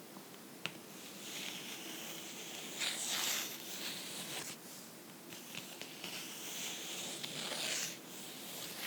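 Fingernails scratching and rubbing on a book in several drawn-out swells, with one sharp tap under a second in.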